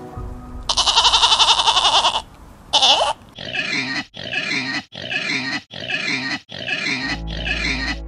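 A goat bleats twice: one long, wavering bleat and one short one. Then a pig grunts six times in an even rhythm, a little under a second apart.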